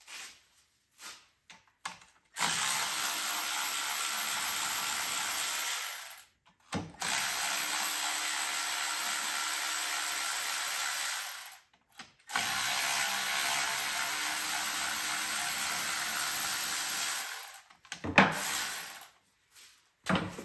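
Cordless power tool, an electric ratchet or drill-driver, running in three long steady bursts of about four to five seconds each while spinning out bolts, with a few light clicks of tools and parts between them and a sharp click near the end.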